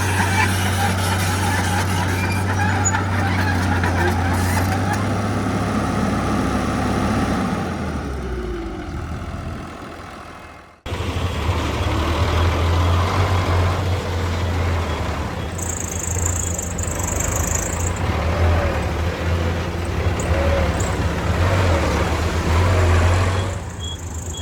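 Heavy diesel engine of earthmoving machinery running steadily. The sound fades away, cuts off abruptly about 11 seconds in, then picks up again with a diesel engine running and a brief hiss a few seconds later.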